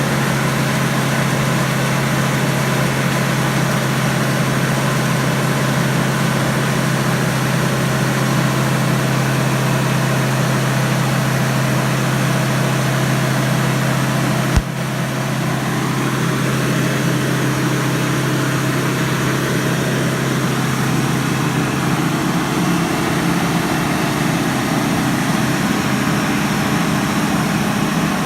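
A 1978 Schramm T64HB drill rig's engine running steadily at a constant speed. About halfway through there is a sharp click, after which the engine note changes a little and a faint tone glides up and back down.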